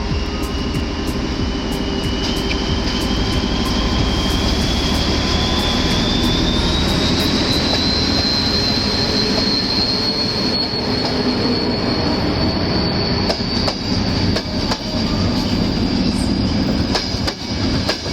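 A train running on the rails: a steady rumble with scattered clicks, and a high whine that climbs slowly in pitch for about ten seconds and then holds.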